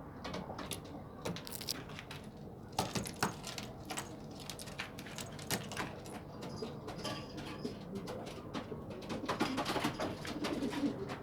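Domestic pigeons cooing, getting louder near the end, among scattered light clicks and taps.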